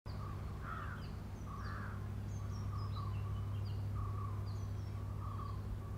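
Wild birds calling outdoors: short high notes that drop in pitch, repeated every second or so, with lower calls in between, over a steady low hum.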